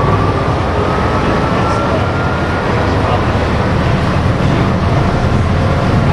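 Canal tour boat's engine running steadily, heard on board as a loud, even low hum.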